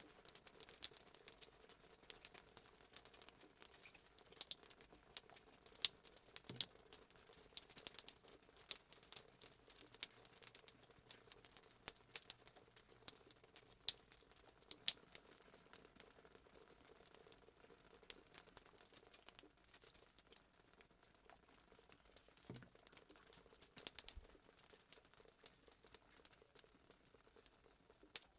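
Fireplace sound effect: a wood fire crackling faintly, with many small quick pops and now and then a sharper one.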